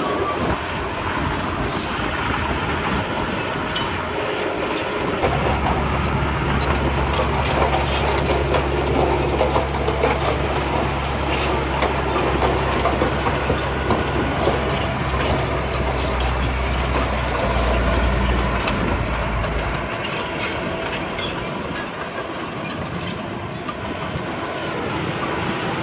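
Heavy diesel earthmoving machinery at work: engine running with continual clanking and rattling. A steady low engine drone comes in about five seconds in and drops away about twenty seconds in.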